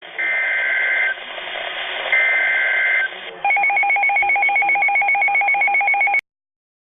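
Emergency Alert System SAME header: two bursts of data tones about a second each, marking the start of an alert. Then a rapidly pulsing two-tone attention signal sounds for about three seconds and cuts off suddenly.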